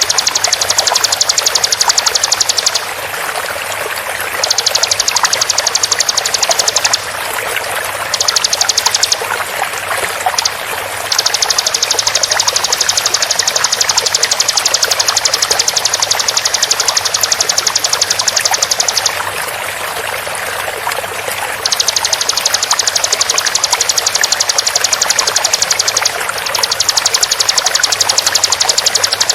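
Bar-winged prinia (ciblek) calls: very rapid, tightly repeated high notes in bouts of a few seconds with short breaks, over a steady sound of flowing water.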